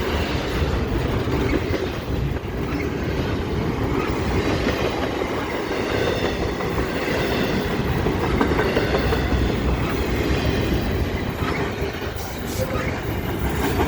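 Freight train rolling past a grade crossing: a loud, steady rumble and rattle of the cars and wheels going by.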